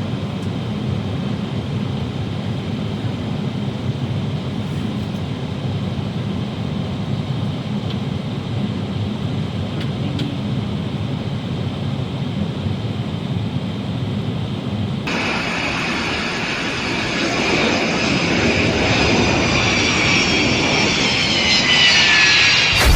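Aircraft engine running steadily with a low rumble. About 15 seconds in, the sound changes abruptly to a louder engine whine whose high tones slide down in pitch toward the end.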